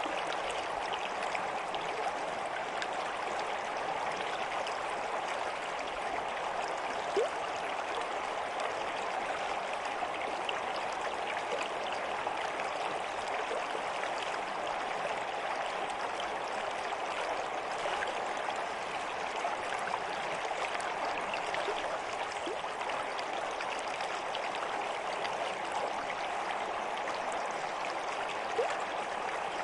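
Stream flowing steadily with a continuous burbling rush of water. Two brief louder plinks stand out, one about seven seconds in and one near the end.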